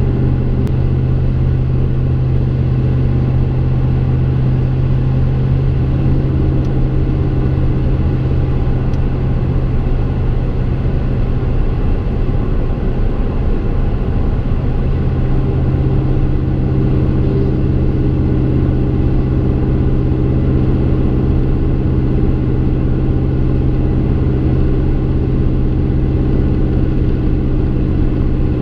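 Exhaust of a 2015 Chevrolet Silverado's 5.3L V8 with Kooks long-tube headers and a Gibson M.W.A muffler, heard from inside the cab while driving. The engine holds a steady speed with an even, low drone and only slight shifts in tone.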